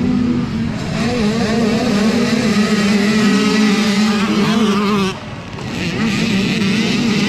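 A pack of mini dirt bikes revving hard off the start line, many small engines at once with their pitches rising and falling. The sound drops briefly about five seconds in, then comes back.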